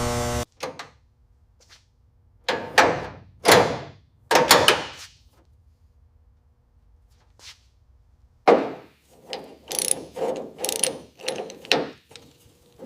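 Workshop work on car parts: a run of sharp mechanical clacks and clunks from hand tools and metal parts, in irregular clusters with short pauses between, after music cuts off about half a second in.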